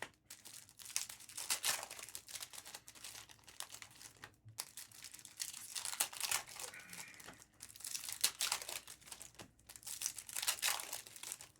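Trading-card pack wrappers crinkling and tearing as packs are opened and handled, in irregular bursts of rustling.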